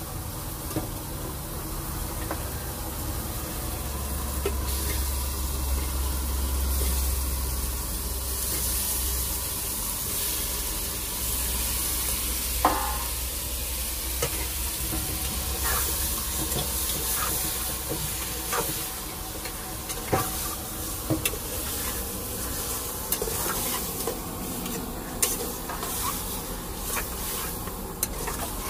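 Chicken sizzling as it fries in a pan, with a steady hiss and the scattered clicks and scrapes of a spoon stirring it against the pan.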